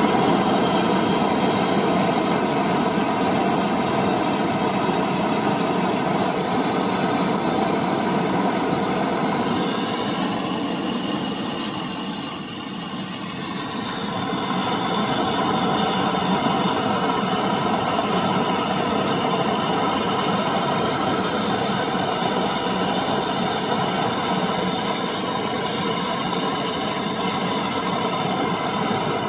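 Gas brazing torch burning with a steady rushing hiss while a refrigerator cooling coil's joints are brazed; it drops briefly a little before the middle, then returns.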